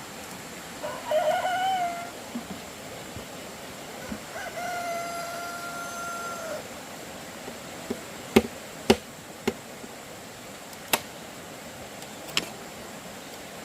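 A rooster crows twice: a short call about a second in, then a longer crow ending on a long held note around five seconds. In the second half come about half a dozen sharp knocks, the loudest around eight to nine seconds in.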